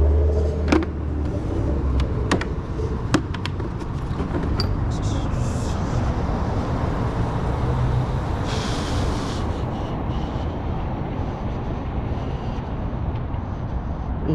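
Steady low motor-vehicle rumble. A few sharp metallic clicks sound in the first three seconds, and a short hiss comes about nine seconds in.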